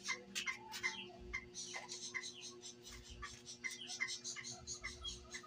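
Small birds chirping: a rapid, irregular run of short high chirps, several a second, heard faintly.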